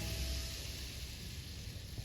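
The last held notes of music die away in the first half second, leaving a steady hiss of room tone and recording noise.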